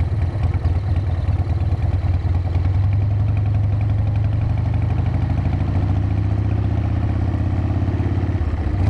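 Harley-Davidson V-twin motorcycle engine running under way. The pitch falls slowly through the middle as the bike eases off, then picks back up near the end.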